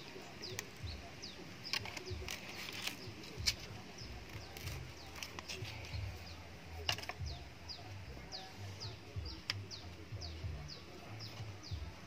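A bird calling over and over with short, high, falling chirps, about two or three a second, with a few sharp clicks scattered through.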